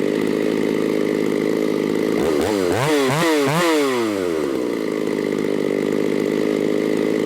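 Shindaiwa 757 two-stroke chainsaw idling steadily, with four or five quick throttle blips about two seconds in that send the engine revving up and back down, then settling to idle again.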